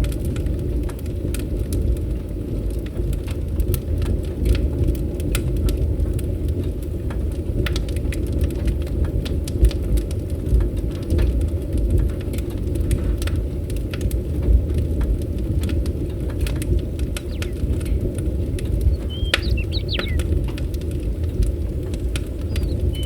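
Wood fire crackling, with frequent sharp pops and snaps over a steady low rumble. A bird chirps briefly a little before the end.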